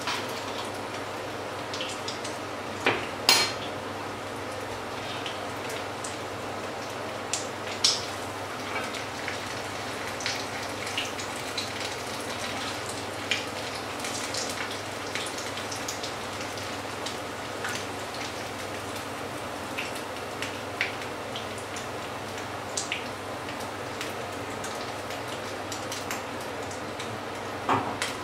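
Fritters frying in hot oil in a pan: a steady sizzle with scattered pops and crackles. A few sharp clicks of a metal knife against the pan, the loudest about three seconds in and another near the end.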